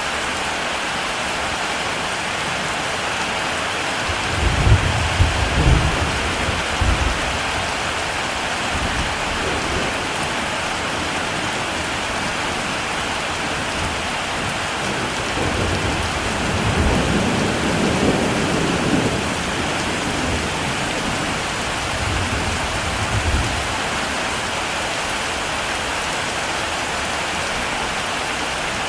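Heavy rain falling steadily, with deep rolls of thunder: one about four seconds in, a longer one around the middle, and a shorter one a few seconds later.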